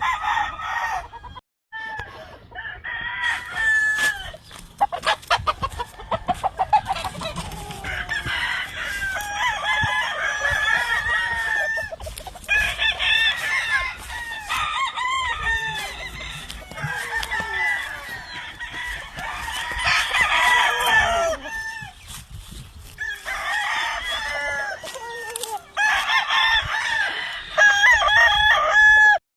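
Several gamefowl roosters crowing over and over, their crows overlapping, with some clucking, and a run of sharp clicks about four to seven seconds in.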